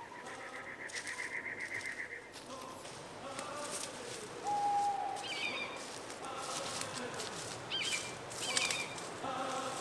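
Birds singing: a rapid trill for the first two seconds, then scattered short whistled notes and quick chirps.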